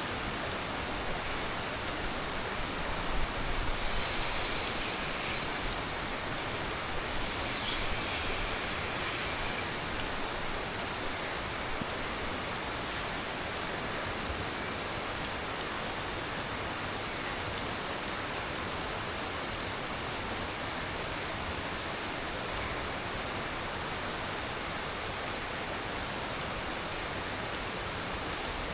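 Heavy tropical monsoon rain falling steadily, an even hiss of rain that holds the same level throughout. Twice in the first ten seconds a brief higher-pitched sound rises above the rain.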